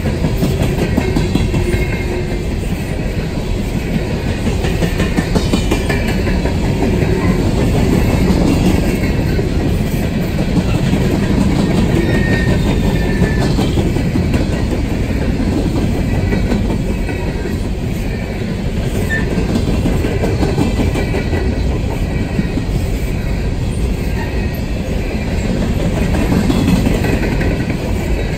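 Railroad cars rolling past steadily, wheels clattering on the rails, with brief faint squeals from the wheels now and then.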